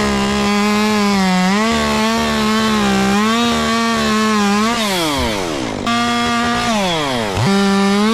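Chainsaw cutting through a birch limb at high revs, its engine note wavering slightly under the load. A little past halfway the throttle is let off twice, the revs dropping away each time before it opens up again.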